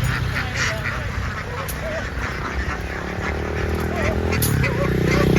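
A large flock of domestic ducks quacking in a dense, overlapping chorus. A low, steady engine hum grows louder over the second half.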